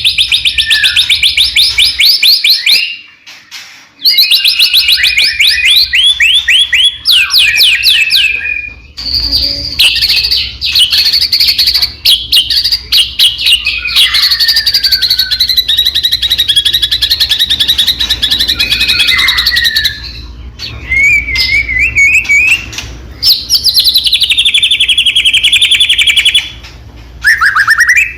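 White-rumped shama (murai batu) singing loudly and almost without pause: long runs of fast trilled notes and sliding whistled phrases. The song breaks off briefly a couple of seconds in and again about twenty seconds in.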